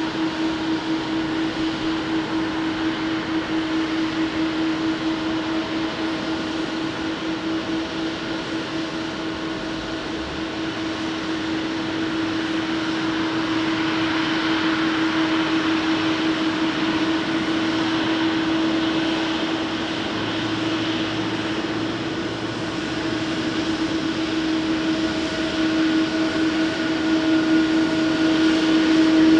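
Jet airliner engines running steadily: a broad rushing noise with a constant humming tone, growing a little louder near the end.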